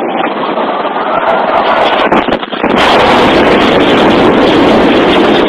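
Loud rushing road and wind noise from a speeding police cruiser, with a faint siren wail fading in the first half second; about three seconds in the noise jumps louder and hissier.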